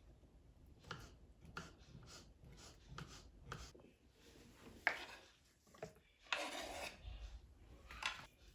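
Quiet kitchen handling sounds: a run of short scraping and rubbing strokes about every half second, a sharp knock about five seconds in, and a longer rub at about six and a half seconds.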